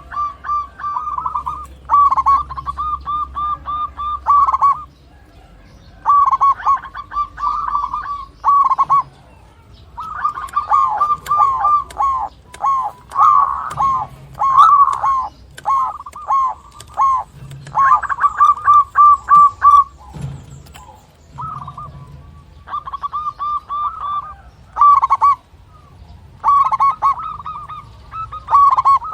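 Zebra dove (local perkutut) singing: repeated bouts of rapid, rolling coos at one steady pitch, each a second or two long with short pauses between.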